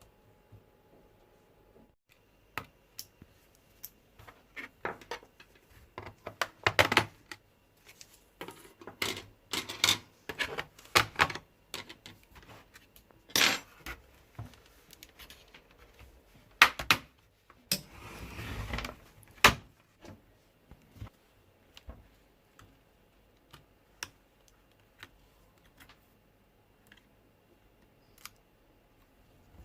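Irregular clicks, taps and small knocks of tools and hard plastic parts being handled during laptop repair work, with a short scraping rustle a little past the middle.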